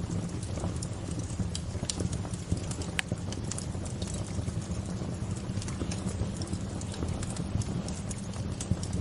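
Wood fire crackling: irregular sharp pops and snaps over a steady low rush, with one louder pop about three seconds in.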